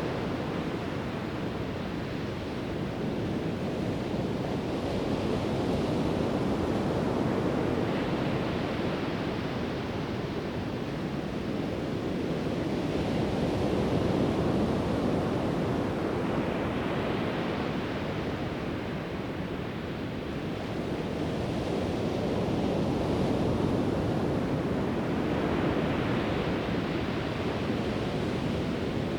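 Pacific Ocean surf breaking on the beach: a continuous wash of waves that swells and eases every few seconds as each wave comes in.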